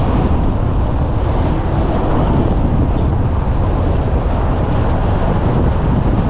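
Steady low rumbling noise of wind buffeting the microphone, heaviest in the deep bass.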